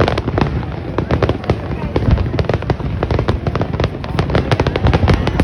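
Fireworks going off in rapid succession: many sharp bangs and crackles a second, over a steady low din.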